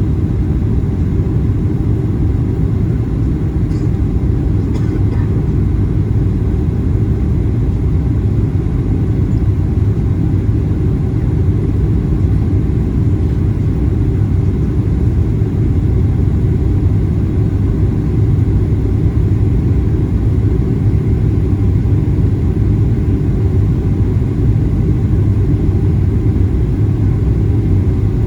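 Boeing 737-800 cabin noise: a steady low rumble that holds unchanged throughout.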